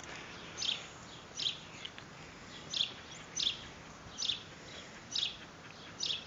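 A bird chirping over and over, seven short high calls roughly once a second.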